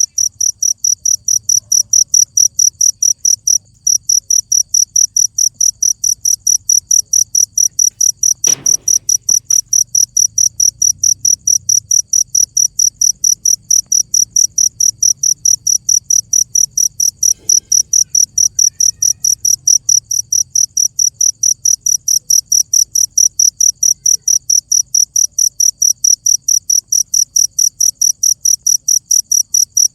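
A cricket chirping steadily, about three to four chirps a second, with a short break near the start.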